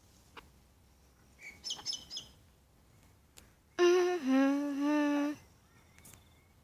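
A few quick, high bird chirps about a second and a half in, then a person humming a steady low note for about a second and a half, dropping in pitch once. The humming is the loudest sound.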